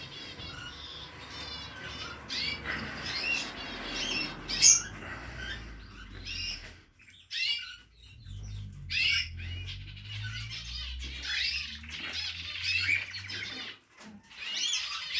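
Small pet birds chirping and twittering in quick, repeated notes, with wing flutters.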